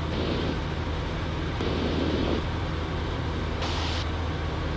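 Cessna 172's piston engine and propeller droning steadily in flight, heard inside the cabin. A brief hiss comes about three and a half seconds in.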